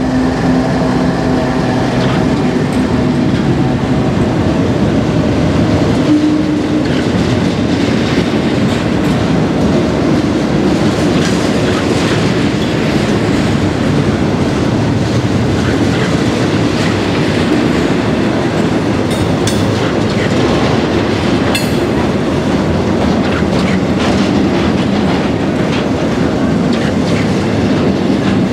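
Florida East Coast Railway double-stack container freight train rolling past with steady wheel-on-rail noise from the cars. A few sharp metallic squeaks and clanks come about two-thirds of the way through.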